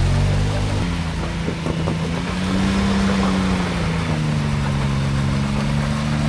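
Side-by-side UTV engine running under throttle. Its pitch steps up about a second in, climbs gently, eases back, then holds steady.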